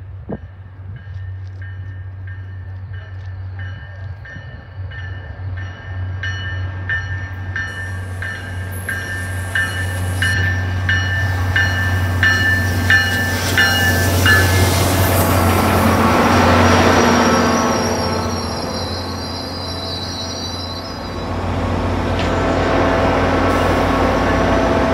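MBTA diesel locomotive and commuter coaches approaching and passing close by: the engine's low rumble grows louder as it nears, with a bell ringing at an even beat through the first half. Steel wheels on rail and a high wheel squeal as the locomotive goes by.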